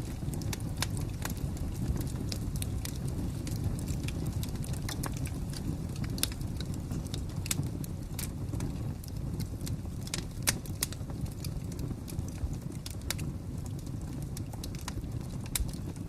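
Wood fire crackling: irregular sharp pops and snaps, a few louder ones, over a steady low rumble of burning.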